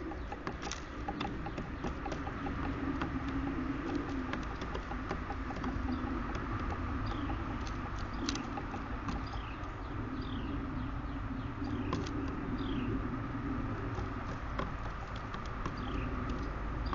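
Small birds at a feeder, picked up by the feeder camera's microphone: scattered short falling chirps and sharp clicks, over a steady low hum and rumble.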